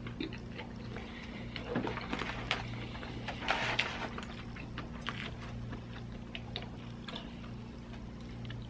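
A person chewing a Big Mac with small wet mouth clicks, over a steady low hum.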